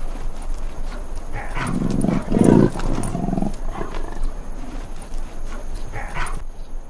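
An animal's low, rough call lasting about two seconds, loudest about two and a half seconds in, with a few fainter calls after it.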